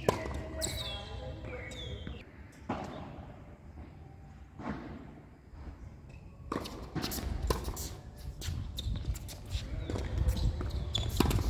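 Tennis play on court: sharp racket-on-ball strikes and ball bounces, a couple of seconds apart at first and coming thick and fast near the end, with short sneaker squeaks and footsteps.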